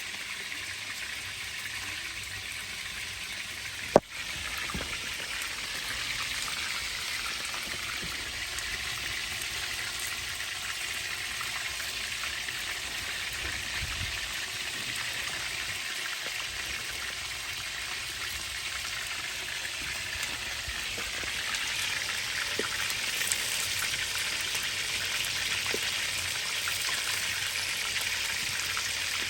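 Steady rain hissing, growing somewhat louder about two thirds of the way through, with one sharp click about four seconds in.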